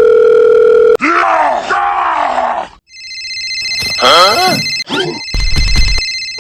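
Cartoon sound effects: a steady electronic beep for about a second, then a character's wordless groaning and grunting voice. From about halfway through, a steady electronic telephone ring runs under more grunting, with a low thump near the end.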